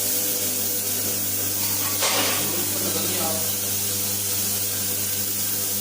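Floor washing machine's electric motor running with a steady hum and hiss, with a brief burst of noise about two seconds in.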